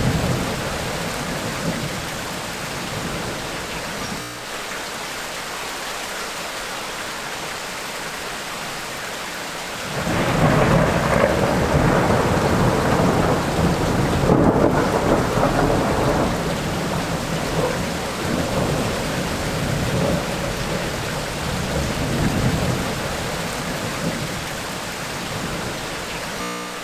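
Steady heavy rain, with a roll of thunder that breaks in suddenly about ten seconds in, rumbles loudly for several seconds and then dies away in weaker rolls.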